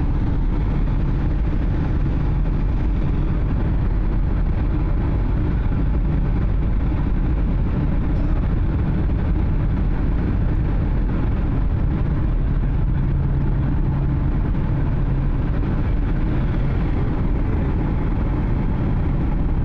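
Steady engine drone and rushing air heard inside an airliner's cabin on final approach before touchdown, with a low hum that swells a little at times.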